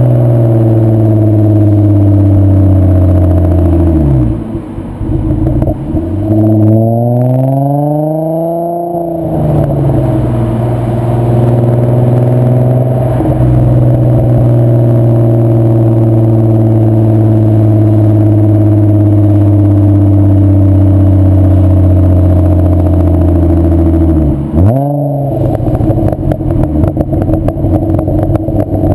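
VW mk4 2.8 VR6 24V narrow-angle six-cylinder engine running through a Milltek non-resonated exhaust while driving, mostly at a steady drone. The revs drop about four seconds in, climb in a rising rev around seven to nine seconds, and settle again. About 25 seconds in the revs dip suddenly, followed by a run of crackles.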